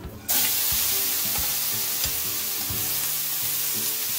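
Green beans hitting hot oil in a frying pan, setting off a loud sizzle a moment in that keeps going steadily. Background music plays underneath.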